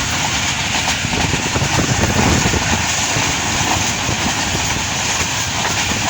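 Passenger train running on the rails: a steady rumble with a dense rattle of wheel and track noise.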